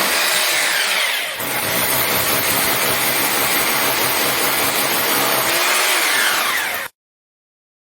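Electric hammer drill boring into a masonry wall. The motor's pitch falls over the first second as the bit bites in, then it runs in a steady grinding hammer, and the sound cuts off suddenly near the end.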